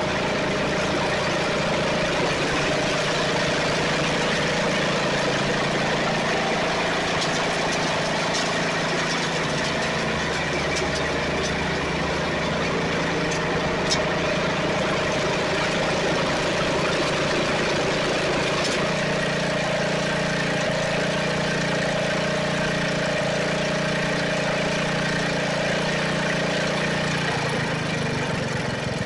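Snapper riding mower engine running steadily, with one brief click about halfway through and a slight change in its note near the end.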